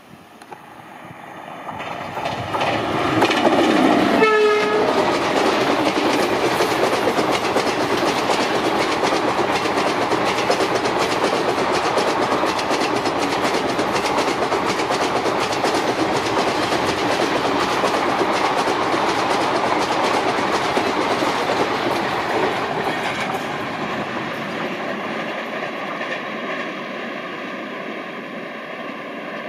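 Indian Railways WAP-7 electric locomotive and its express passenger coaches passing at speed, wheels clattering over the rails. The clatter swells up over the first few seconds, with a brief horn note about four seconds in that drops in pitch as it goes by. The dense rush of the coaches then runs on steadily and fades in the last several seconds as the train moves away.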